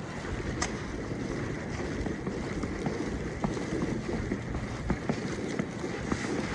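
Blizzard wind buffeting the microphone: a steady rumbling rush, with scattered short ticks through it.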